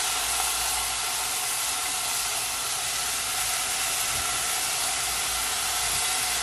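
Frozen mixed vegetables sizzling in hot olive oil in a saucepan: a steady hiss as their ice and moisture hit the oil.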